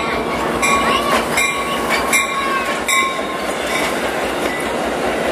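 Train rolling past with a steady rumble, its wheels clicking over the rail joints several times in the first three seconds, over a thin steady squeal from the wheels.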